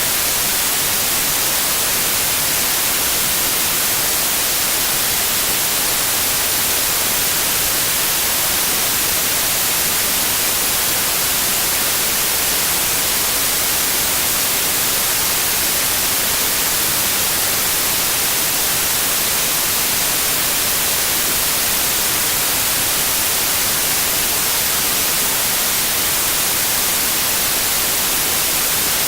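Steady synthetic white noise: an even, unvarying hiss, strongest in the high end.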